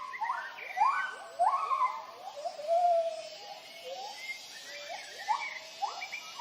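Gibbons giving their territorial hooting call: a rapid series of rising whoops from several voices overlapping.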